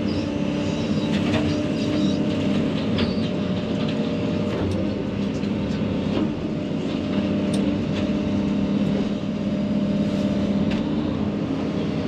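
Excavator diesel engine running steadily under load, driving a hydraulic brush-cutter mower, with scattered sharp ticks over the steady hum.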